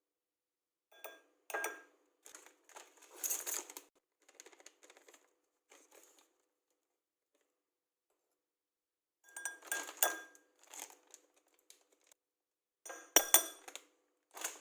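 Kitchen dishes and utensils being handled: short clusters of clinks and knocks with a brief ring, plus some rustling, in three bursts with quiet gaps between.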